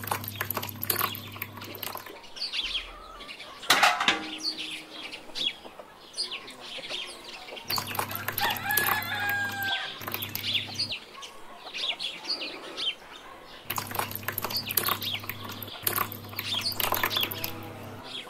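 Birds chirping in quick, short calls throughout, with a low hum that switches on and off about three times.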